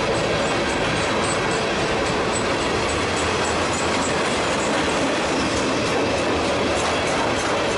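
Freight cars of a Norfolk Southern mixed manifest train (covered hoppers, boxcars and gondolas) rolling past close by: a steady, loud rumble of wheels on the rails, with a faint high wheel squeal a second or two in.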